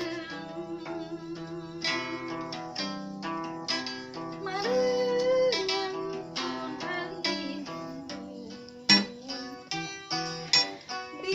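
Kacapi (Sundanese plucked zither) music: quick runs of plucked notes, with a few longer held notes among them.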